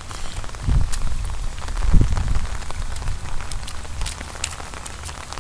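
Rain falling, with scattered drops ticking close by. Two low thumps come about one and two seconds in.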